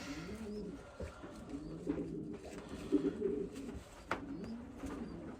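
Racing pigeons cooing, low rolling coos repeating and overlapping, with a couple of short clicks about a second in and near four seconds in.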